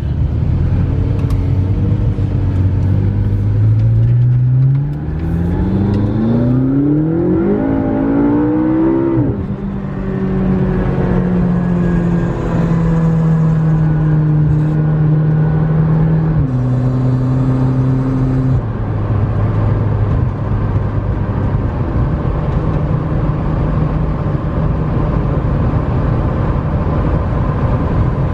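McLaren 650S Spyder's twin-turbo V8 accelerating: its pitch climbs steadily for about five seconds, then drops sharply at an upshift. It then runs at a steady cruising pitch, with two more drops in pitch a little after halfway, over constant tyre and road noise.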